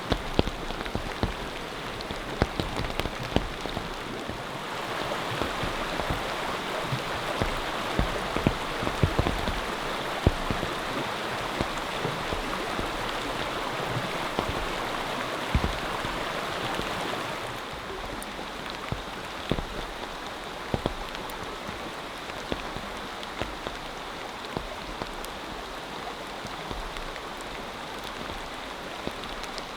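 Rain falling steadily, with many individual drops ticking. It is heavier for a stretch from about five seconds in until about seventeen seconds in.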